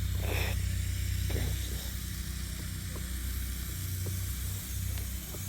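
Steady low rumble of an engine running, under a constant hiss of outdoor noise, with a few faint ticks.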